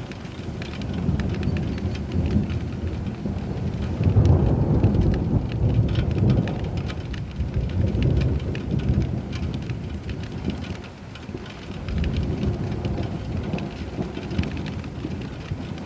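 Steady rain pattering on a surface, with rolling thunder rumbling underneath. The rumble swells to its loudest about four seconds in, eases off, and builds again near twelve seconds.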